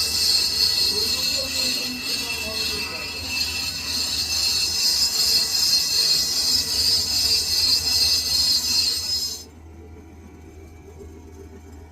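Lathe cutting tool on a steel workpiece: a loud, steady, high-pitched screech of metal cutting over the machine's low hum. The screech cuts off suddenly about nine and a half seconds in, leaving the lathe's hum running.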